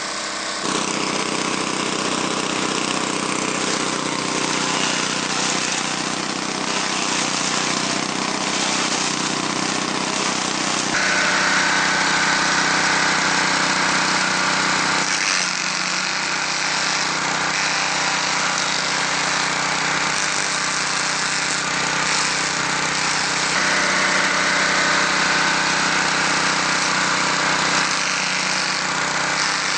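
Small petrol engine of a banana-stem shredder running steadily while it chops banana stems. Its tone shifts a few times, turning brighter about eleven seconds in and again a little after twenty seconds.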